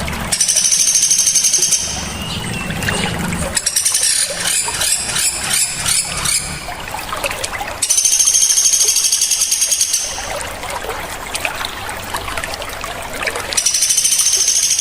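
Small songbirds giving loud, sharp, high-pitched trilled calls in three bursts of a couple of seconds each, with a quick chattering run of repeated notes between the first two, over the steady sound of trickling water.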